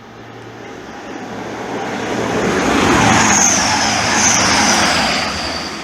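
Grand Central Class 180 Adelante diesel multiple unit passing through the station at speed. Its noise swells to a peak about three seconds in and then fades, with a high whine at the loudest point.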